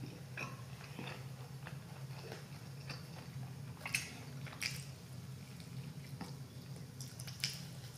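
Close-miked eating of a Whopper Junior burger: quiet wet chewing and mouth clicks, with a few sharper bites into the soft bun about four to five seconds in.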